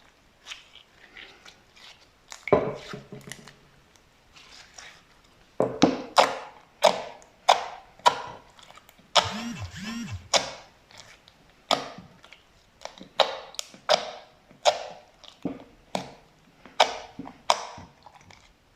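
Slime being pressed and squished by hand, making a run of sharp pops and squelches, about one or two a second, that grow louder about five seconds in, with one longer drawn-out squelch near the middle.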